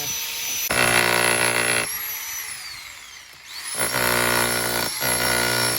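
Jackhammer hammering in two bursts of a second or two each. Between the bursts its motor whine winds down, then spins back up as the hammering starts again.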